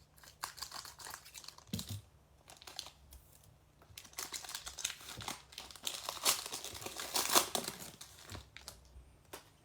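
Plastic wrapper of a trading card pack crinkling as it is opened and handled: irregular crackling, heaviest in the second half.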